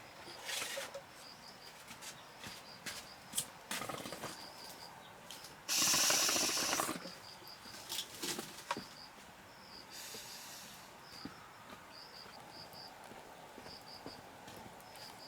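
Insects chirping in short repeated pulses, with scattered clicks and a loud rustling hiss about six seconds in that lasts about a second, and a fainter one a few seconds later.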